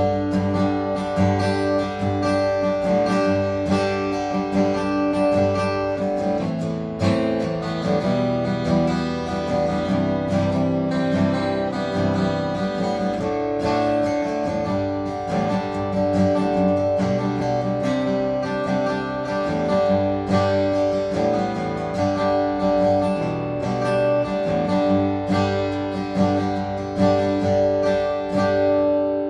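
Seagull S6 acoustic guitar with a cedar top and cherry back and sides, strummed through a series of chords.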